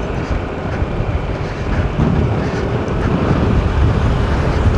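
Steady road and wind noise of a moving car heard from inside the cabin, with air rushing in through an open window.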